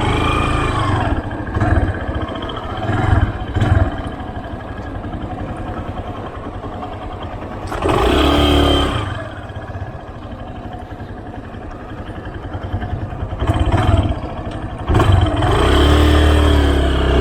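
Motorcycle engine accelerating in three bursts of rising revs, about a second in, around eight seconds in and near the end, settling back to a lower steady running between them: the learner accelerating up to speed for an emergency-braking exercise.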